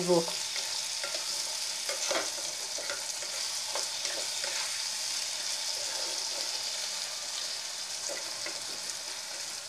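Diced potatoes, tomatoes and onions sizzling in hot oil in a kadai, with a steady hiss, while a spatula stirs them and now and then scrapes and knocks against the pan.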